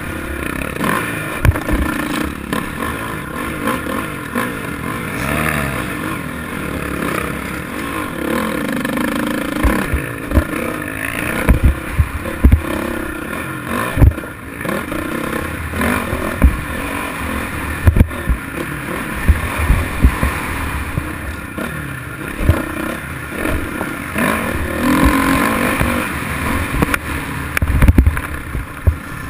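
Small motorcycle engine running and revving up and down as the bike is ridden off-road, with repeated sharp thumps and rattles from the bike hitting bumps.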